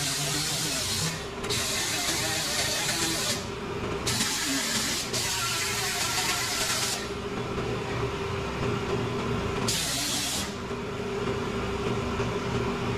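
Hissing spray of air in several long bursts that start and stop, the last one short, over a steady low hum.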